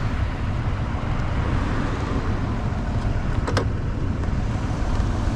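Steady low rumble of road traffic idling at a stop light, with a brief click about three and a half seconds in.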